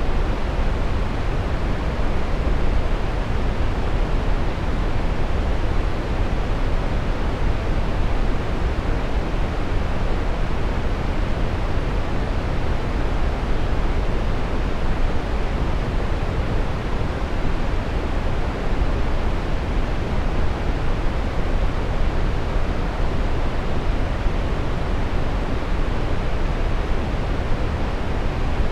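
Steady brown noise: an even, unchanging hiss-like rumble, strongest in the low end and thinning out toward the top.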